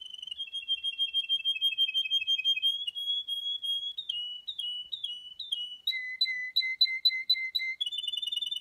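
Male Russian canary singing: a continuous high-pitched song of rapid rolling trills, changing phrase every couple of seconds. It moves from a fast trill to a short run of falling slurred notes, then a two-pitched phrase repeated about four times a second, and back into a fast trill near the end.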